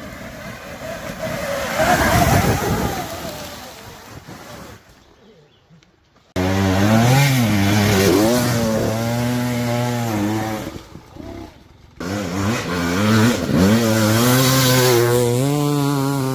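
Dirt bike engine revving hard, its pitch climbing and dropping as the throttle is worked. A first burst swells and fades within a few seconds; then the engine note cuts in sharply twice more, strong and steady with small rises and falls.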